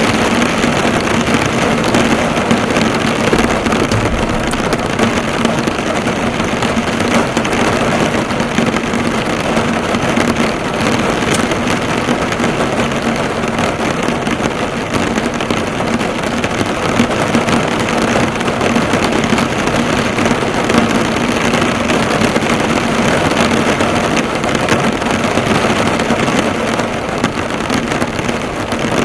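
Heavy rain drumming steadily on a car, the drops pattering on the bonnet, with a faint steady low hum underneath.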